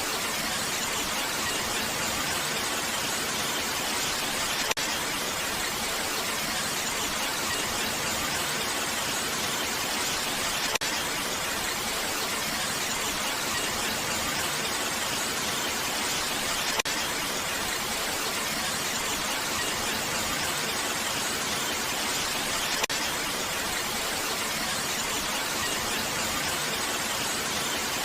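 Steady rain hiss, even and unbroken, with a faint click about every six seconds.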